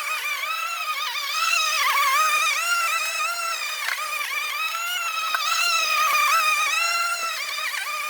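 Einhell GE-CM 18/33 18-volt cordless rotary mower running with a high-pitched electric whine while cutting grass, its pitch wavering and dipping briefly as the blade meets thicker grass.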